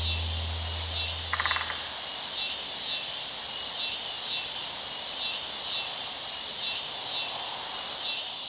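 Evening insect chorus: a steady, high-pitched pulsing trill. A low held note from the closing music dies away in the first two seconds, and a short buzzy chirp sounds about a second and a half in.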